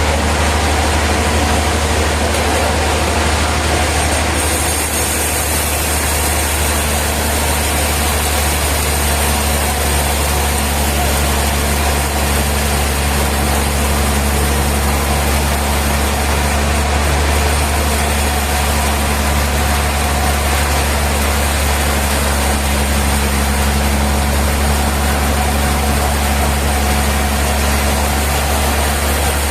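Heavy sawmill machinery running steadily: a deep, even engine-like hum with a constant hiss over it.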